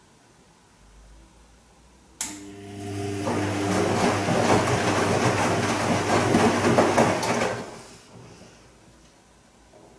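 Bosch Serie 2 VarioPerfect washing machine on a gentle silk wash: a click about two seconds in, then a few seconds of motor hum and rushing water noise that swells, holds and fades out about eight seconds in.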